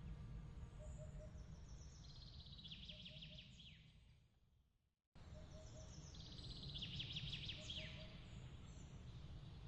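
Night ambience of soft chirping calls: rapid high trills ending in falling glides, with a faint three-note chirp repeating about every second and a half, over a steady low rumble. About five seconds in, the sound fades out to silence and abruptly restarts with the same chirps, the seam of a loop.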